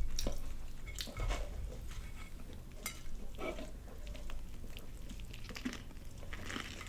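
Eating sounds: soft chewing and handling of a fried-chicken-and-glazed-donut sandwich, with scattered small clicks and rustles.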